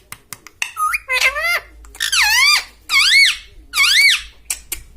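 Pet ringneck parrot making four loud, high calls that swoop up and down in pitch, with rapid clicking at the start and near the end.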